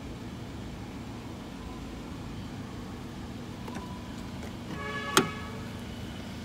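2004 Suzuki Grand Vitara idling with its A/C compressor and condenser fan running, a steady low hum; the freshly regassed system is cooling well. A brief squeak about five seconds in, a finger dragging on the wet window glass.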